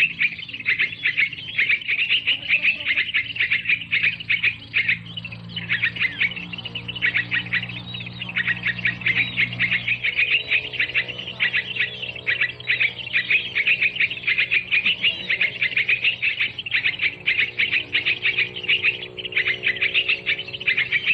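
Birds chirping and twittering rapidly and without pause, a dense run of short high notes. A faint low steady hum runs underneath.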